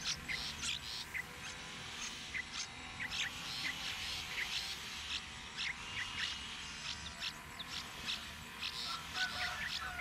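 Birds chirping: a busy run of short, high calls in quick succession, with a thin, level whistle about six seconds in.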